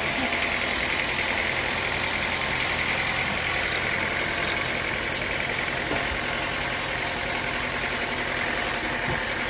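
Sawmill machinery running steadily: an engine-like mechanical hum with a constant high whine and no change in pitch or level.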